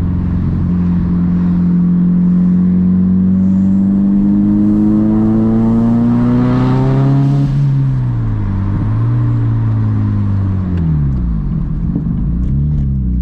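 Turbocharged 1.8-litre four-cylinder engine of a 1996 Audi Quattro 1.8T, revving up steadily under hard acceleration for about seven seconds, then the revs drop sharply and rise and fall unevenly. The engine is making more boost than intended, which the owner puts down to having no control over the boost.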